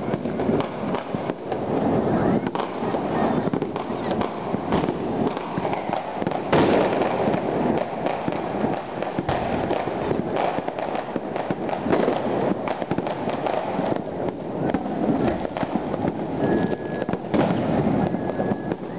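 Dense, continuous crackling of Chinese New Year firecrackers and fireworks going off, with louder single bangs standing out now and then, about five and six and a half seconds in and again near the end.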